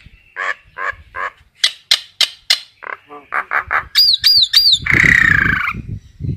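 Common myna calling: a quick run of harsh chattering notes, then three clear whistles that rise and fall about four seconds in, then a long harsh squawk that falls in pitch.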